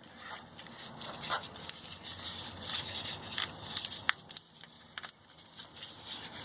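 Plastic wire loom and wiring being handled by hand: irregular crackling and scraping, with a few sharp clicks about four and five seconds in.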